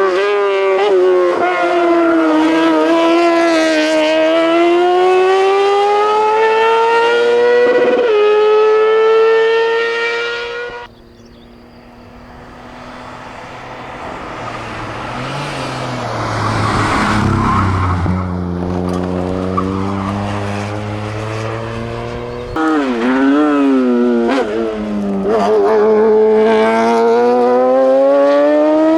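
Competition cars' engines at full throttle on a hillclimb: the engine note climbs through the revs with a gear change about eight seconds in. After a sudden break, a quieter stretch builds, then an engine revs hard again with quick rises and falls in pitch, as through a corner.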